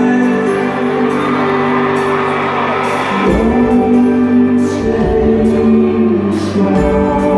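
Live pop music recorded from the audience: sustained singing over the band's backing, with the bass coming in strongly about three seconds in.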